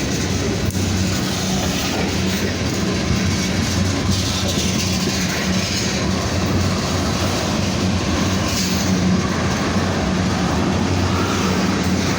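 Long freight train of hopper cars and boxcars rolling past: a steady rumble and clatter of steel wheels on the rails, with a low steady hum underneath.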